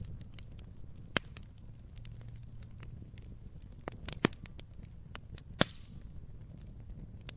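Fire crackling steadily over a low rumble, with frequent small ticks and three louder sharp pops: one about a second in, one about four seconds in, and one about five and a half seconds in.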